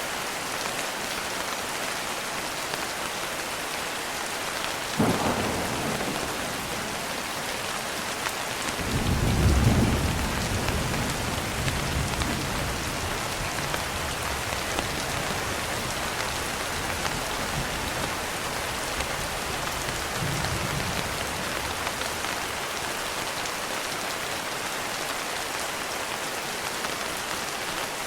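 Steady rain with thunder. There is a sharp crack about five seconds in, then a deep rolling rumble a few seconds later that slowly fades, and a fainter rumble near the twenty-second mark.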